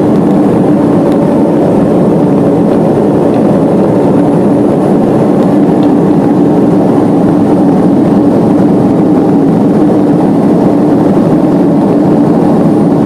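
Steady propeller and engine drone inside the cabin of a turboprop airliner in flight, a loud even noise with a constant low hum running under it.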